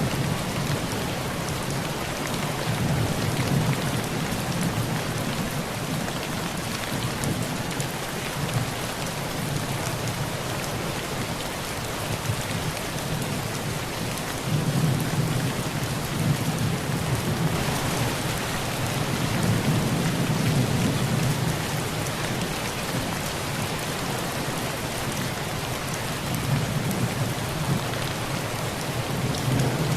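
Heavy rain falling steadily on a tin roof, with low rolling thunder that swells and fades several times, strongest a little after halfway.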